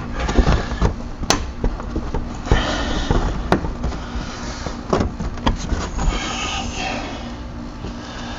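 Hand tools and metal parts clinking, scraping and knocking, with a few sharp metallic clicks at irregular moments.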